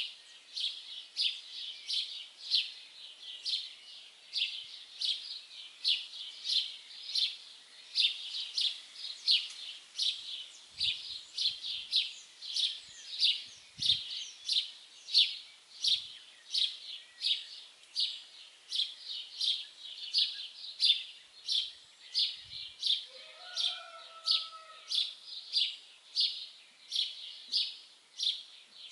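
A songbird chirping steadily, short high chirps repeated about twice a second. A brief, lower call from another bird joins about three-quarters of the way through.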